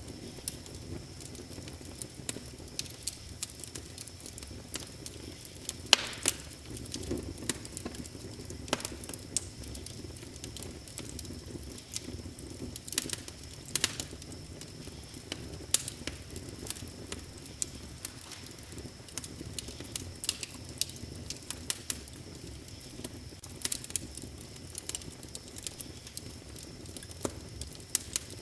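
Wood fire crackling in a fireplace: irregular sharp pops and snaps over a low, steady rumble of flames, with a louder pop about six seconds in.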